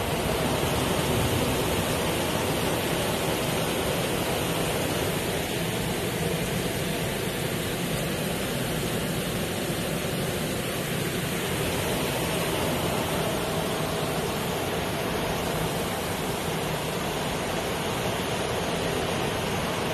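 Heavy rain pouring steadily in a downpour, heard from inside a vehicle.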